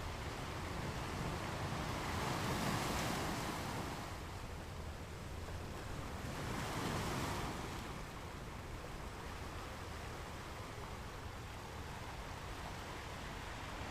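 Ocean waves washing in on the shore, a steady surf noise with two waves swelling and breaking about 2 and 6 seconds in.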